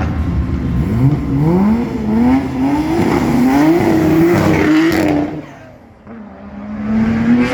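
Car engine revving hard as it accelerates through several gear changes, the pitch climbing and dropping back with each shift. The sound then falls away quickly, and a steadier engine note builds up near the end.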